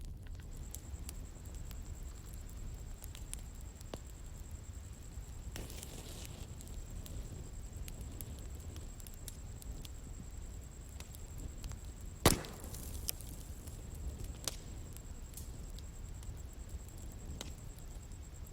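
Outdoor bonfire burning: a low rumble of flames with scattered crackles and pops, and one loud snap about twelve seconds in. A thin, steady high-pitched tone runs behind it from about a second in.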